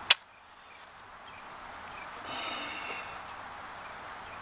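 A single sharp click, then faint outdoor background noise with a brief higher-pitched sound about two and a half seconds in.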